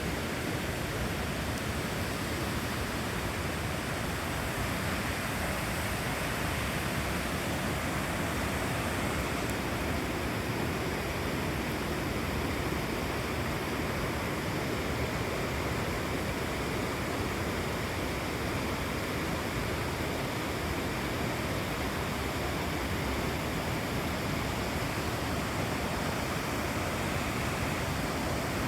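Torc Waterfall: a steady, unbroken rush of water falling and cascading over rock.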